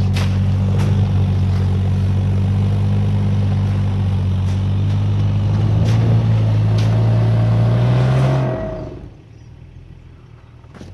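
Off-road 4x4's engine running at steady revs, loud and close, with a few sharp clicks and knocks over it. The engine sound drops away quickly about eight and a half seconds in.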